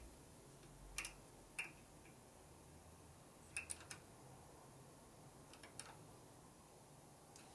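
Near silence broken by a few light, sharp clicks and taps of hand tools and small parts being handled on a workbench, about five or six in all, two of them close together near the middle.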